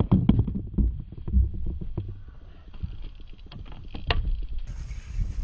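Irregular knocks and clatter of gear being handled in a small fishing boat over a low rumble, with one sharper knock about four seconds in.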